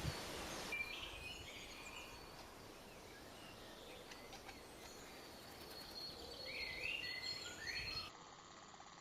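Faint outdoor background noise with scattered short bird calls, a few chirps about a second in and a cluster of sliding notes near the end.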